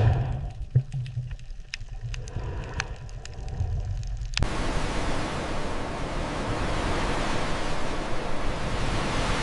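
A low rumble with scattered sharp clicks, then about four seconds in a steady, even hiss cuts in abruptly, like rushing surf, and holds.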